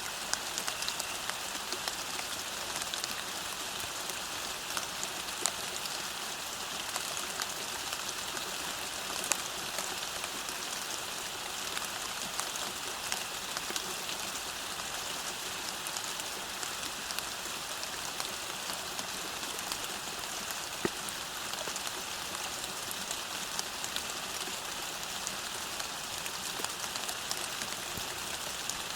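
Steady rain falling on a path, with a continuous hiss and many individual drops ticking throughout.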